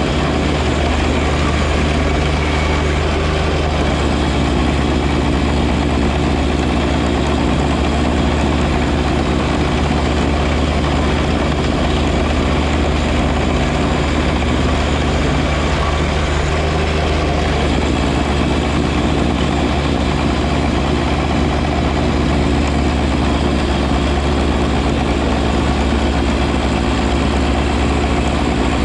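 John Deere 1025R compact tractor's three-cylinder diesel engine running steadily at a constant speed, driving its front snow blower.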